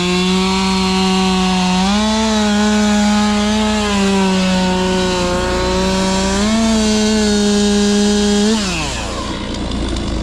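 Woodland Mills portable band sawmill's gas engine running at high speed through a cut, its pitch rising a little twice. About eight and a half seconds in, the engine winds sharply down.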